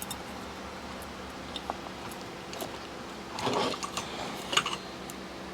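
Small plastic and metal clicks with a brief scraping rustle about three and a half seconds in, from handling a ceiling fan's pull-chain speed switch and its wires, over a faint steady hum.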